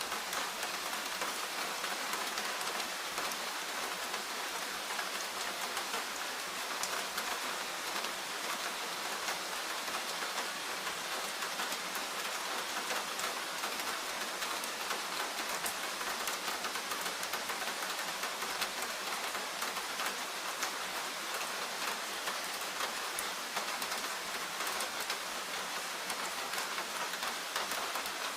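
Steady rain falling in a forest, a dense even patter of many drops.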